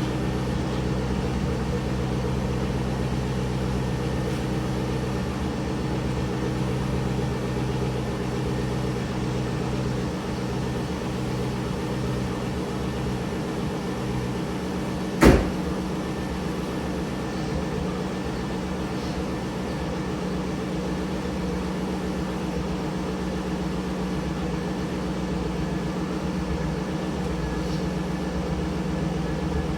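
2002 Camaro SS's 5.7-litre LS1 V8 idling steadily while warming up from a cold start. A single sharp click cuts in about halfway through.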